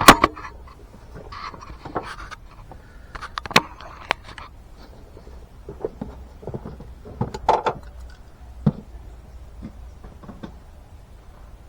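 Scattered clicks, knocks and light clanks of tools and parts being handled around an engine bay, the loudest right at the start and a short cluster about seven and a half seconds in, over a steady low hum.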